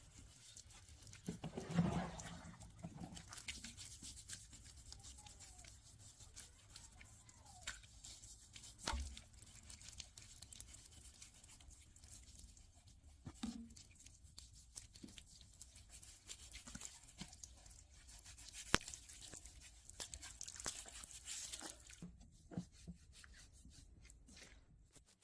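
Faint scrubbing and rubbing on a wild boar's hide as it is washed, with scattered small clicks and a few soft knocks.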